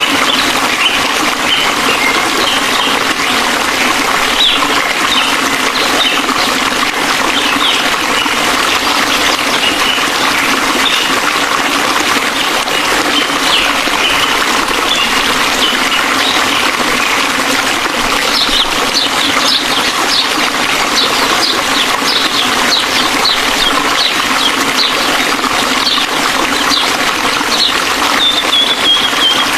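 Steady rush of a waterfall, with small birds chirping over it throughout, the chirps coming thicker in the second half and ending with a longer falling call.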